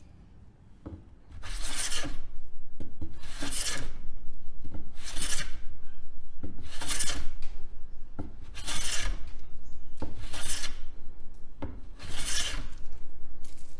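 Stanley No. 4 bench plane taking seven long strokes along a board, each a hiss of the iron cutting shavings, about one every second and a half to two seconds. A short knock comes between strokes. The freshly restored plane is cutting well.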